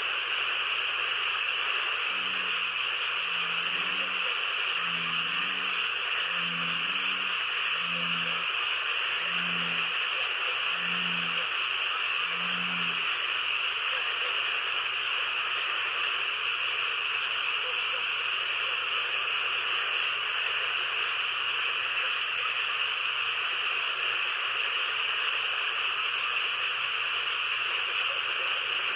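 A steady, high-pitched chorus of calling animals, with a run of about ten low croaks, a little under a second apart, in the first half.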